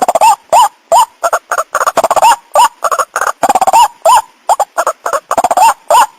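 White-breasted waterhen (ruak-ruak) calling without a break: hooked, rising notes about twice a second, run together with harsh, rapidly pulsed croaks. It is a lure call used to draw male and female waterhens in.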